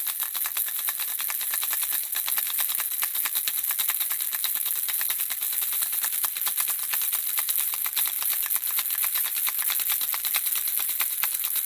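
Handheld baby rattle shaken continuously, its small beads or pellets making a fast, steady, tinkling clatter of dense clicks.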